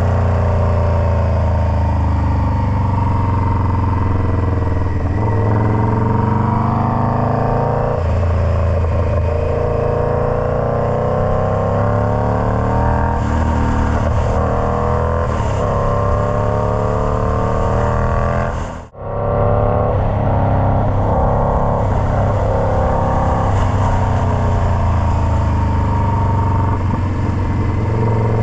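Indian Scout Bobber's V-twin engine running through a Freedom Performance Combat 2-into-1 exhaust, its note rising and falling again and again as the throttle is worked. The sound breaks off for an instant about two-thirds of the way through, then comes straight back.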